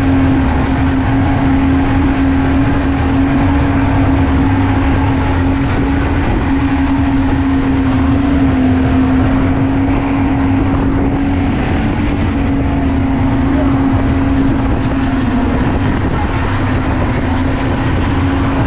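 An engine running at a steady speed, with a strong, even drone and a low rumble that holds without a break.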